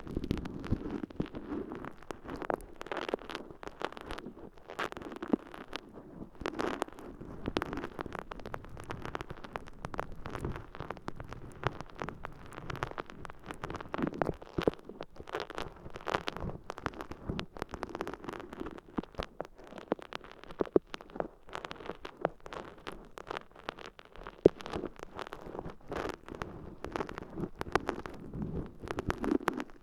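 Water-soaked sponge squishing against a microphone's ear canal, close up, in a dense irregular run of wet crackles and pops.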